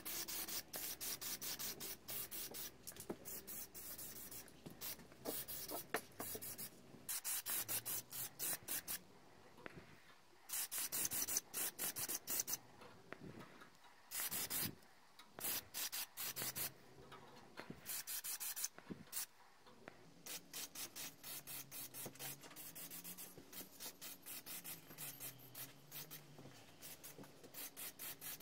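Hand abrasive work on a metal part: quick back-and-forth rubbing strokes, several a second, in runs broken by a few short pauses.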